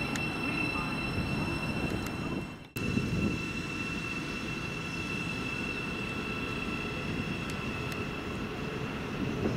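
Train at a station platform: a steady low rumble with a steady high-pitched whine over it. The sound cuts out abruptly for a moment about three seconds in, then resumes.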